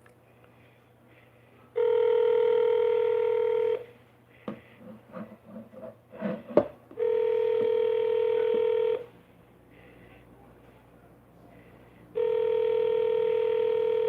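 Phone call ringback tone playing through a phone's speaker while an outgoing call to her grandma goes unanswered: three steady two-second rings about five seconds apart. Between the first and second rings there are a few light clicks and knocks, the loudest a sharp click just before the second ring.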